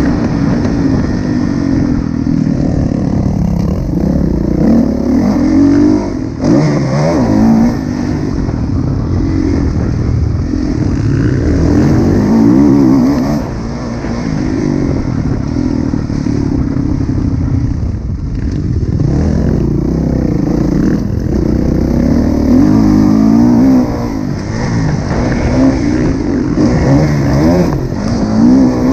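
2016 Kawasaki KX450F's single-cylinder four-stroke engine being ridden hard around a motocross track, revving up and falling back again and again as the throttle opens and closes.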